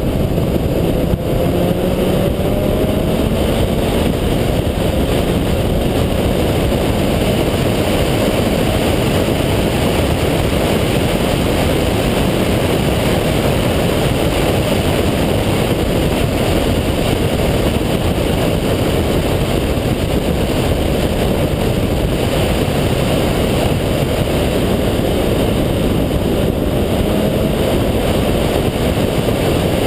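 Single-turbo Mazda RX-7 rotary engine pulling hard at speed, half buried under steady wind and road rush. Its pitch climbs under acceleration over the first few seconds and again near the end.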